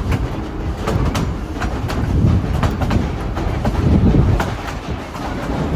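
Narrow-gauge passenger train running, a steady low rumble with wheels clicking over the rail joints.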